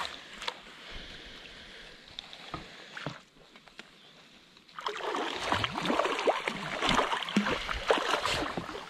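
Water splashing hard at the surface about five seconds in, lasting a few seconds, where the fishing line enters the water: a fish thrashing on the line. Before that, only a few faint clicks.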